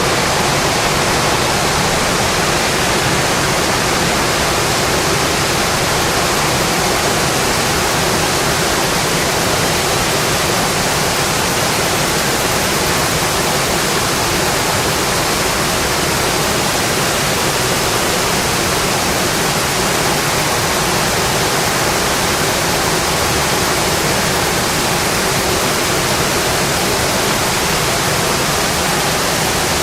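Steady rain falling on a metal roof: an even, unbroken hiss.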